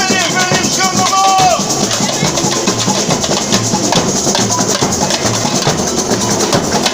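Samba batería drum corps playing: a dense, driving rhythm of drums and shakers.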